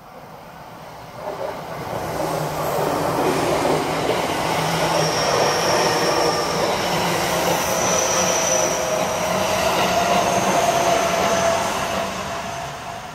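JR West Hanwa Line electric multiple-unit train passing at speed close by. Its running noise builds from about a second in, stays loud as the cars go past with a high steady whine over the rumble, and fades near the end.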